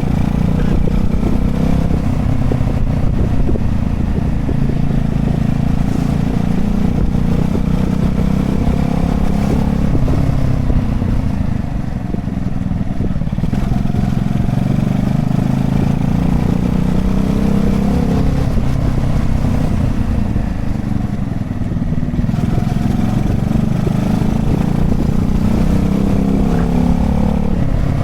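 Honda Chaly minibike's small single-cylinder engine running while riding, its pitch climbing and dropping several times as it speeds up and eases off, over a steady low rumble.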